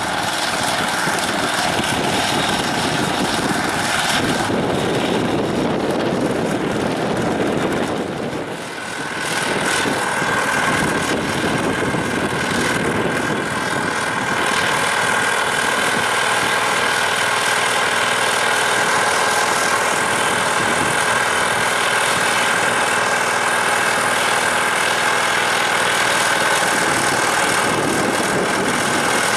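Diesel tractor engine running steadily while working the ground. It dips briefly about eight seconds in, and a steady high whine joins from about ten seconds on.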